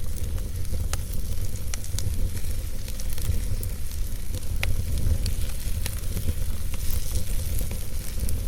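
Wood fire burning in a fireplace: a steady low rumble and hiss with sharp crackles and pops about once a second.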